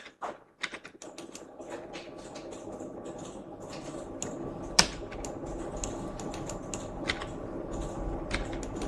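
Computer keyboard keys clicking in an irregular run of keystrokes, with one louder click about halfway through, over a steady background hum that comes in about a second in.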